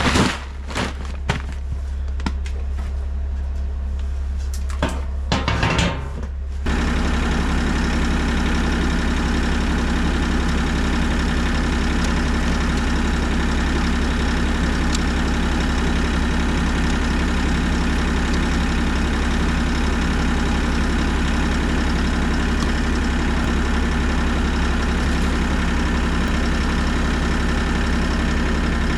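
Bobcat E50 mini excavator's diesel engine running steadily, with a few knocks and clicks over it at first. About seven seconds in, the engine sound abruptly becomes louder and fuller and stays steady.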